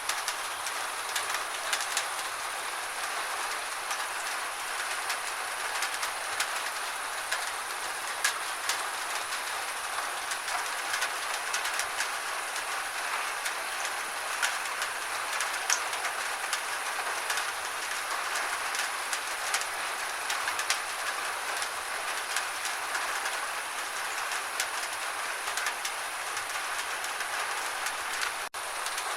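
Gentle steady rain: an even hiss of rainfall with many irregular individual drop ticks. A split-second dropout near the end.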